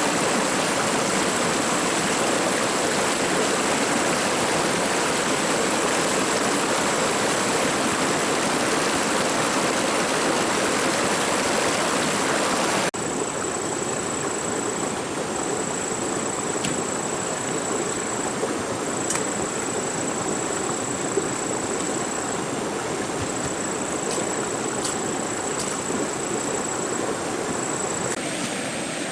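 Steady rushing water with a thin, high, steady tone over it. About thirteen seconds in it changes abruptly and goes a little quieter, with a few faint clicks after.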